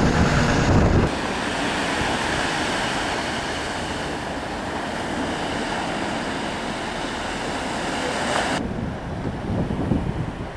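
Storm surf and strong wind on the coast, the wind buffeting the microphone in a steady rushing noise. The sound changes abruptly about a second in and again near the end, with a heavier low rumble in the first second.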